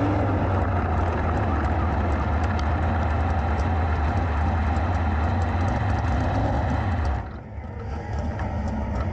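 Sprint car's V8 engine running steadily at low speed, heard from the onboard camera mounted on the car. About seven seconds in the sound drops away sharply, then builds back at a lower level.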